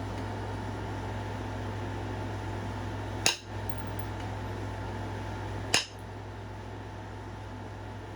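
Two sharp, glassy clicks about two and a half seconds apart, with a third right at the end, as flakes snap off a stone point being knapped to thin its base. A steady low hum runs underneath.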